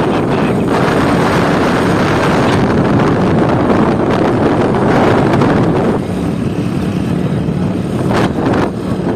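Wind rushing over a handheld phone's microphone at highway speed, with a Hero Splendor's single-cylinder four-stroke engine running underneath. The wind eases a little about six seconds in.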